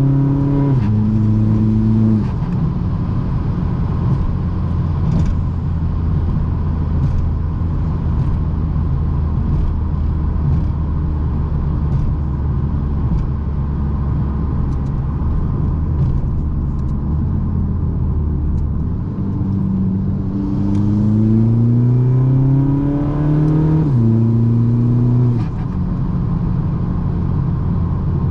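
Tuned 2.0 TDI common-rail four-cylinder diesel with an upgraded big turbo, heard from inside the car: two quick upshifts at the start, then a long steady cruise. About twenty seconds in it accelerates again, revs rising through a gear, and shifts up twice near the end.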